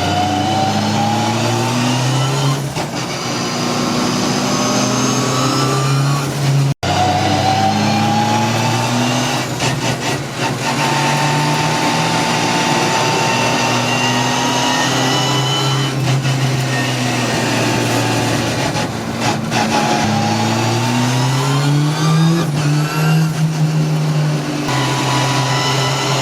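Car engines accelerating hard and revving, the engine note climbing in pitch in several pulls, with a sudden break about seven seconds in.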